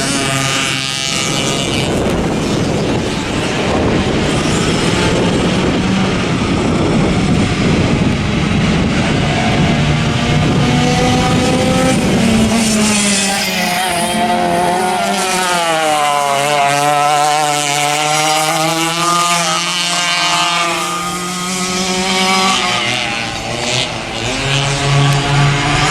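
Vintage racing kart engines running hard. Their pitch drops through the middle as the revs come down, then climbs again as they rev back up.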